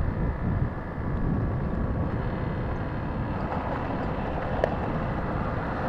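Motorcycle running at road speed, with a steady rush of wind and road noise on the microphone and a faint engine hum underneath.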